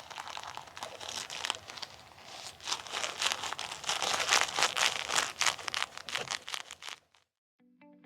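Bilpearl rubber gloves rubbed hard against each other, a quick run of crinkling, sticking rubs that grows louder about two and a half seconds in and stops abruptly about seven seconds in. Guitar music starts just at the end.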